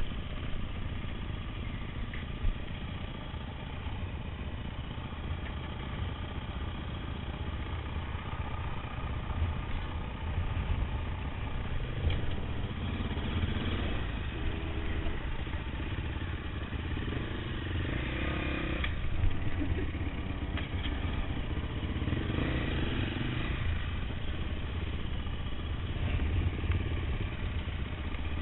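KTM trail motorcycle engines running at low speed, the throttle rising and falling several times.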